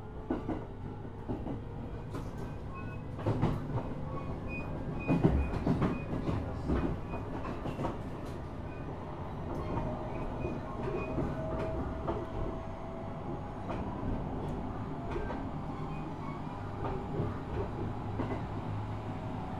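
Running sound aboard a 701-series electric multiple unit, motor car KuMoHa 701-5009 with its original, unrenewed VVVF equipment: steady wheel-on-rail rumble with a run of sharp clicks and knocks from rail joints, loudest about five seconds in, and faint steady tones above the rumble.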